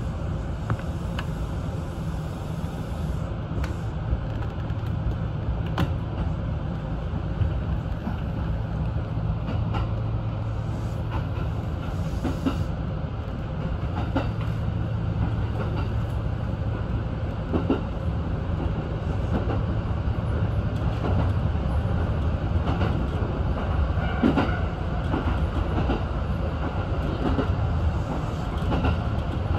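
Kintetsu express train running along the line, heard from inside the front car: a steady low hum of the running train with scattered clicks and knocks from the wheels on the rails and points.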